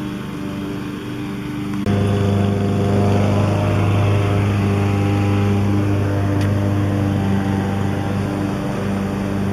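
Demolition excavator's diesel engine running with a steady hum, jumping suddenly louder about two seconds in and holding at the higher level.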